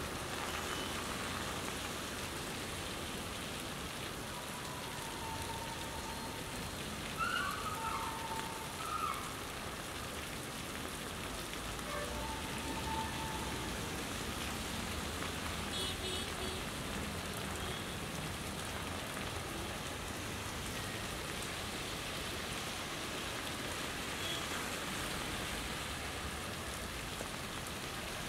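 Steady rain falling on a wet road, an even hiss, with a few brief faint tones standing out about seven to nine seconds in.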